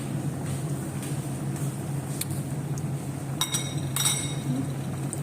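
A utensil clinking twice against a dish, each strike ringing briefly, over a steady low hum.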